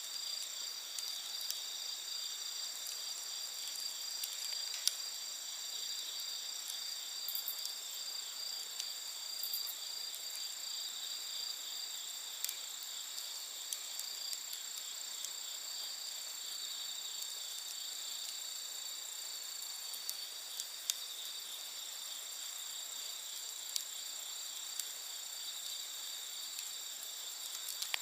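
A steady chorus of night insects singing at several high pitches, with a few sharp crackles from a wood campfire scattered through it.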